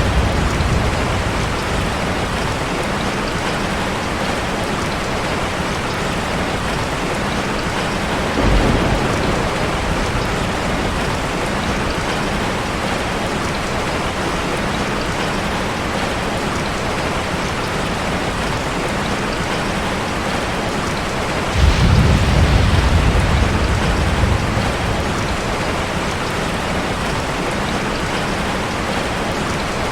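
Steady rushing water noise of a waterfall, like heavy rain, with a short low rumble about eight seconds in and a longer low rumble rising suddenly near the twenty-two-second mark and fading over a few seconds.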